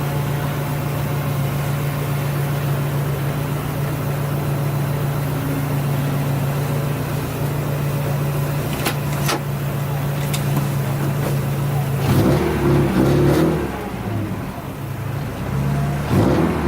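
Turbocharged Subaru WRX STi flat-four engine heard from inside the car, running at a steady pitch, then from about twelve seconds in revving up and down through gear changes as the car accelerates. Two sharp clicks sound shortly before the revving starts.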